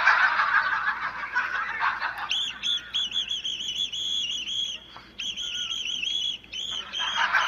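A toy whistle blown in a quick series of short, shrill toots for several seconds, with a short break in the middle. It follows a noisy clattering wash about two seconds long.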